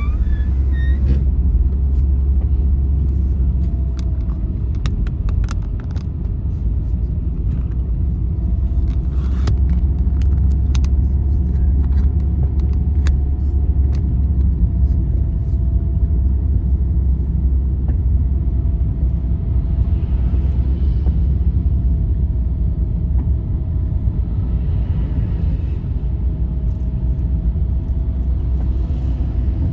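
A road vehicle travelling along a highway, with a steady deep rumble of engine and road noise. A faint wavering tone runs over the rumble, and there are scattered small clicks and rattles in the first half.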